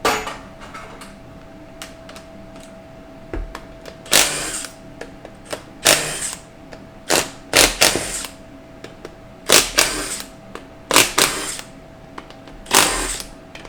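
Metal transmission parts and hand tools being handled on a workbench during a teardown of a 4L60E transmission: about nine irregularly spaced sharp clanks and knocks, a few with a short scrape, over a faint steady hum.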